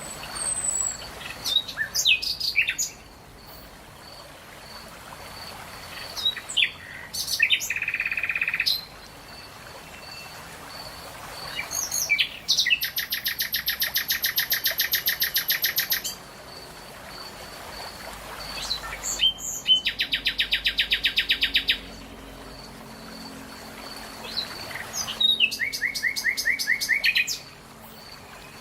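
Songbirds singing: short chirps and sweeping notes, then long, fast trills of about ten notes a second, repeated in phrases a few seconds apart over a steady hiss, with a faint high pip repeating in the background.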